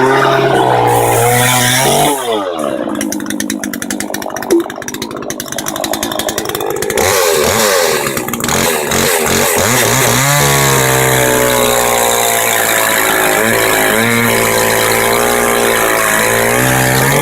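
Chainsaw cutting wood: the engine speed dips and recovers under load for several seconds, then runs steadily at high revs.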